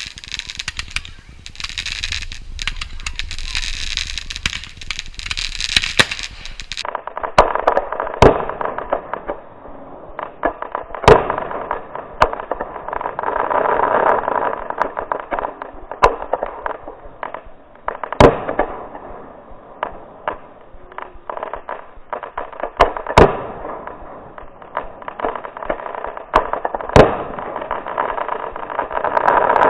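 A steady rushing noise, then from about seven seconds in a fireworks display recorded on a GoPro Hero 4: sharp bangs every few seconds with crackling in between.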